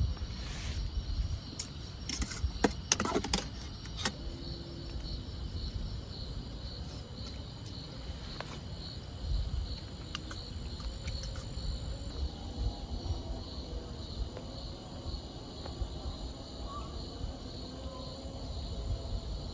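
Night insects chirping steadily, a high pulsing call about twice a second, over a low rumble. A few sharp clicks and rattles come about two to four seconds in.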